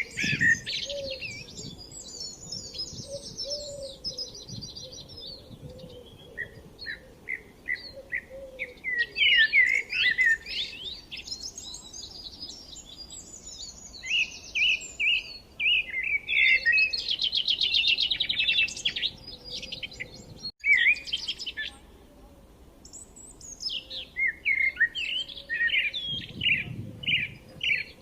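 Birds singing: a dense run of chirps, short whistled notes and fast rattling trills.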